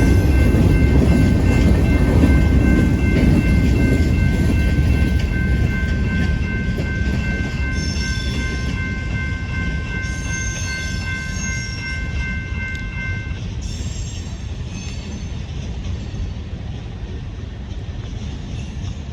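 A train rumbling past and drawing away, its low rumble slowly fading. Over it a locomotive horn sounds one long steady chord that cuts off about two-thirds of the way through.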